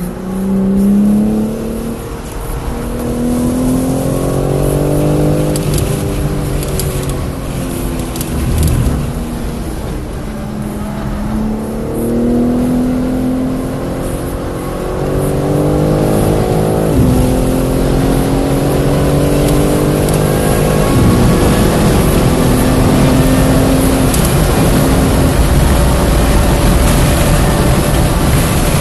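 2022 BMW M3 Competition xDrive's twin-turbo straight-six accelerating hard through the gears, heard from inside the cabin: the engine note climbs and drops sharply at each upshift, with one lift in the middle. In the last third the car is held at high speed with steady engine, wind and tyre noise.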